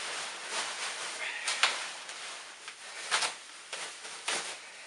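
Plastic bubble wrap and packaging rustling and crinkling as it is pulled off by hand, with a few sharper crackles.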